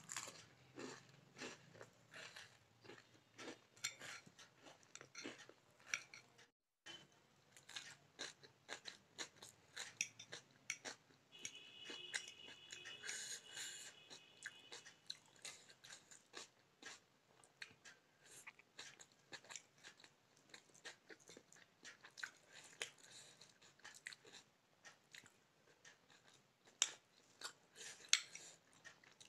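Close-miked eating sounds: wet chewing and smacking mouth clicks as someone eats forkfuls of noodle pasta, with a few sharper clinks near the end that fit a metal fork on the plate.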